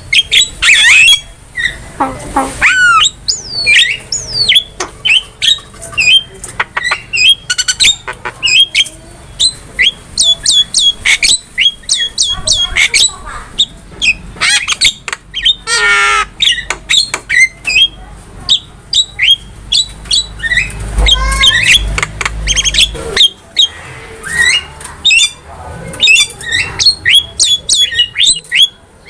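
Javan myna (jalak kebo) singing nonstop: a quick, varied stream of harsh squawks, clicks, whistled glides and chattering notes. About halfway through there is a fast rolling trill.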